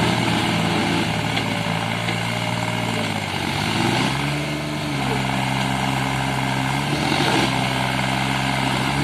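Diesel tractor engines running hard under load in a tractor tug-of-war. About three and a half seconds in, the engine note rises, then drops back and holds steady.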